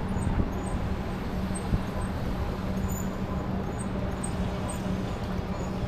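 Steady wind and road noise from riding an e-bike along a street, with a low, even hum running underneath.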